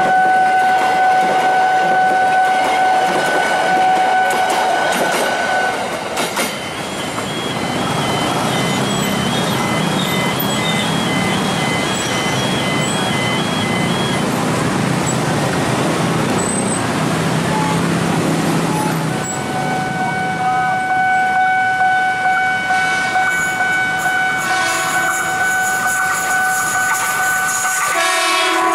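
Passenger train coaches rolling past a railway level crossing while the crossing alarm sounds a steady two-note tone. After a break the alarm tone comes back, and near the end an approaching KRL commuter electric train sounds its horn, its pitch falling.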